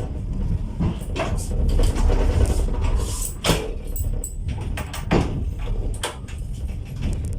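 Steady low rumble inside a passenger train carriage, broken by several sharp knocks and clunks.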